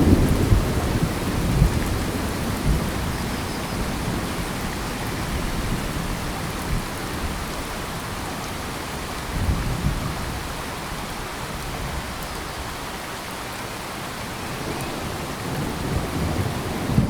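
Steady rain with low rumbles of thunder, strongest at the start and again about ten seconds in.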